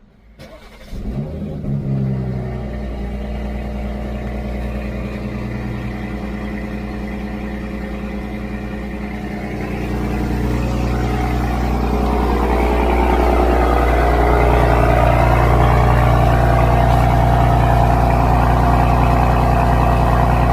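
A BMW M340i's 3.0-litre turbocharged inline-six with a performance exhaust, cold-started. The engine catches about a second in with a short flare, then settles into a steady fast idle that grows louder about ten seconds in.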